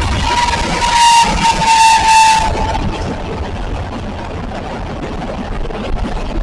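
Locomotive horn sounding one long, high note that sags slightly in pitch and cuts off about two and a half seconds in. The rumble of the train rolling past follows.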